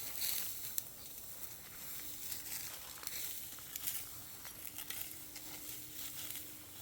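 Soft, irregular crackling and hissing, with scattered sharper crackles.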